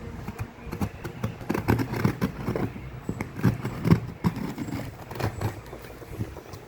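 Laptop packaging being handled and opened: an irregular run of knocks, taps and rustles, densest in the middle, over a low rumble of handling on the microphone.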